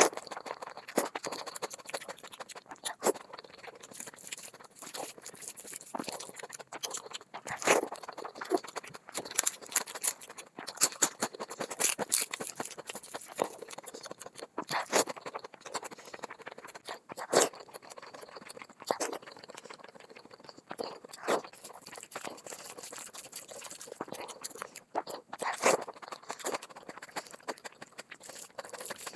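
Close-miked eating sounds: chewing and wet mouth smacks as curried rice and chicken are eaten by hand, with irregular sharp clicks throughout.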